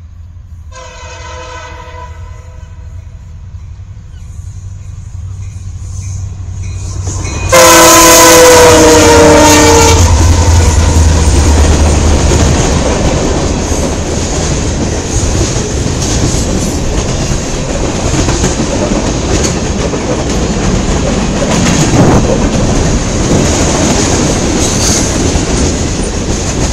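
CN freight train led by three diesel locomotives coming up and passing. A short, fainter air horn blast comes about a second in, then a loud horn blast of about two and a half seconds as the locomotives draw level. After that the locomotives rumble past and the freight cars roll by with steady wheel noise and clickety-clack.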